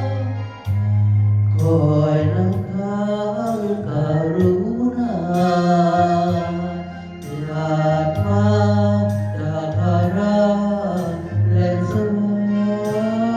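Music: a male voice singing or chanting in long, wavering, gliding phrases over a steady low drone.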